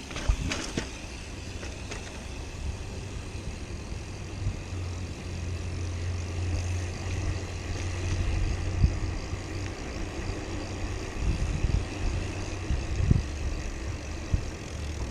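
A motor vehicle running nearby, a steady low hum over road noise, with a few knocks and rattles.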